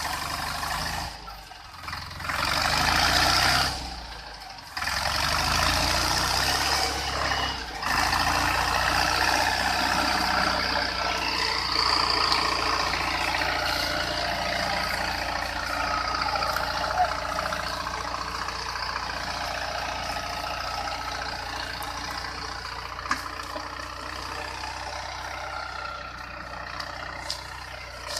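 Tractor engine running steadily, broken by three short drops in the first eight seconds, then continuous.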